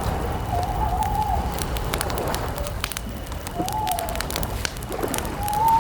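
Wood campfire crackling in sharp snaps over a low rumble, while a bird calls three times in drawn-out, wavering mid-pitched notes.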